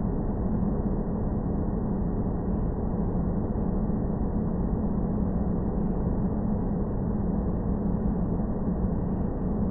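Sci-fi space-planet ambience: a steady, dark low rumble and drone with a constant hum, unchanging and without separate events.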